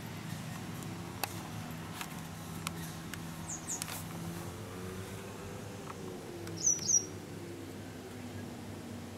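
Small bird chirping: short, high, falling chirps, a faint pair about three and a half seconds in and a louder pair near seven seconds. A steady low hum runs underneath.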